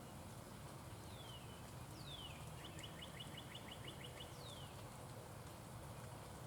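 Northern cardinal singing, faint: clear downslurred whistles, with a quick run of about nine short notes in the middle of the song, over a steady low background rumble.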